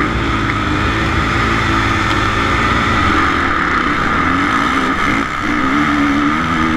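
Suzuki RM-Z450 motocross bike's 450cc single-cylinder four-stroke engine running loud, its revs rising and falling repeatedly in the second half as the throttle is worked.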